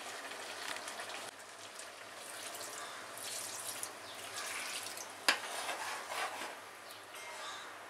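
Chicken curry simmering and sizzling in a metal kadai. Water is poured in from a mug, and the hiss swells about three seconds in. A metal spatula strikes the pan sharply about five seconds in, then scrapes and stirs.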